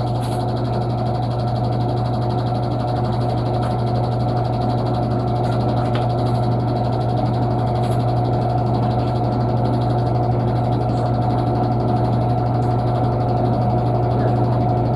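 Panasonic washing machine running with a steady, unbroken hum.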